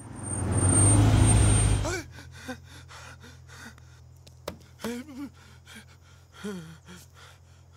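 A car engine swells up loudly for about two seconds and breaks off into a steady low idling hum. Over the hum a man gasps and whimpers in fright a few times.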